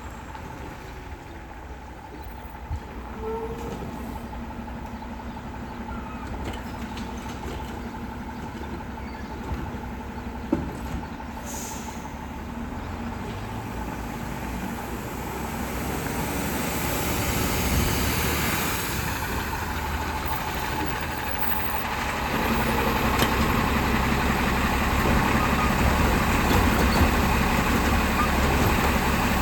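Autocar WX64 Heil Rapid Rail garbage truck's diesel engine running steadily, growing much louder over the second half. A few short knocks come about a third of the way in.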